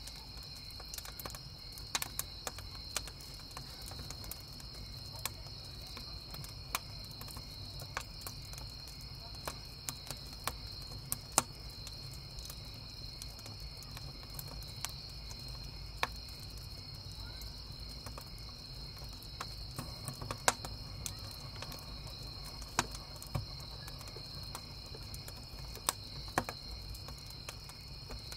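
Crickets chirping steadily, with a campfire's burning wood crackling and popping in sharp, irregular snaps over a low steady rumble.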